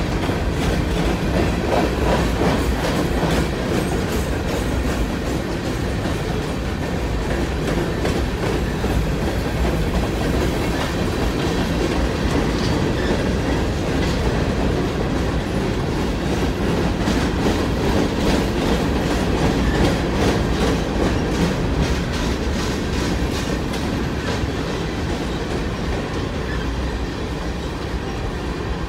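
BNSF coal train's hopper cars rolling past: a steady rumble of steel wheels on the rails with repeated clickety-clack as the trucks cross the rail joints.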